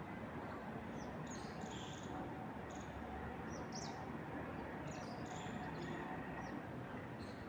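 Small birds chirping, short high chirps and trills coming every second or so, over a steady rushing bed of wind through trees.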